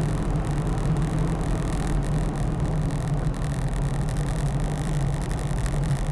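Steady low drone of a swapped-in GM 6.5-litre V8 turbo diesel pulling a Land Cruiser 80 Series at road speed, heard from inside the cab along with even tyre and road noise.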